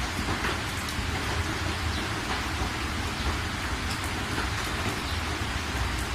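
Steady rain falling, with scattered individual drops ticking through it and a constant low rumble underneath.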